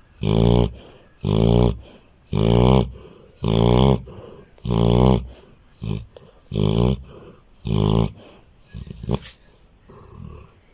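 A dog snoring loudly in deep sleep: a rattling snore with each breath, about one a second. The snores stop about eight seconds in, followed by a few faint, softer sounds.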